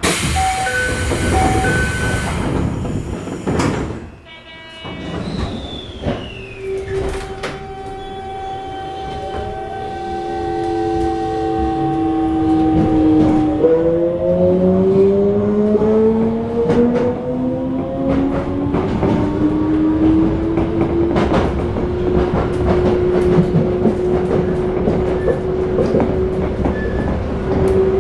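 Toei 5300-series subway car heard from inside as it pulls away. A loud hiss in the first couple of seconds gives way to the VVVF inverter and traction motor whine, several tones climbing in pitch with a sudden jump partway, then settling to a steady tone at cruising speed. Wheel clicks from the rail joints and points sound throughout.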